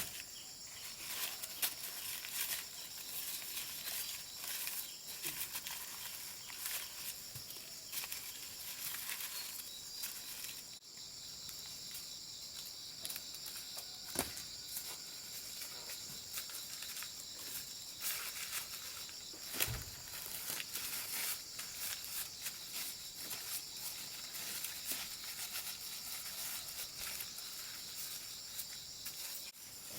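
Steady, high-pitched insect chorus, with frequent rustling and light clicks over it and a couple of sharper knocks.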